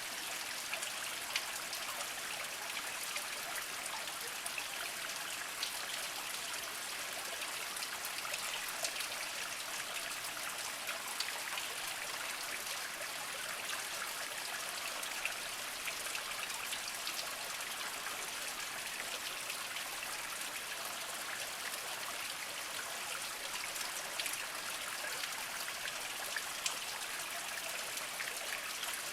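Small spring trickling and dripping over mossy rocks: a steady, light water babble with scattered individual drips.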